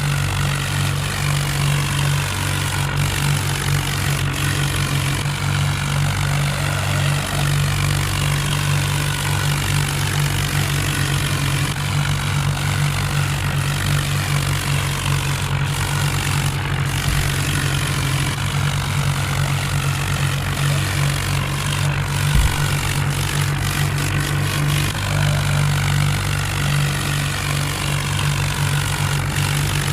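Tractor diesel engine running steadily with a deep, even drone, typical of a tractor working in a tochan (tractor tug-of-war). A single brief knock sounds about 22 seconds in.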